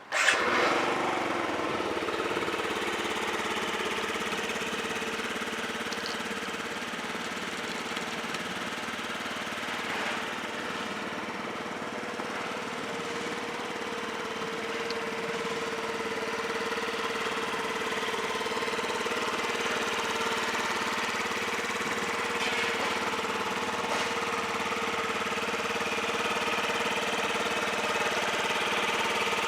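2012 Yamaha Vino 50cc scooter engine starting, catching at once with a brief rise in level, then idling steadily with an even hum. The engine runs in good condition.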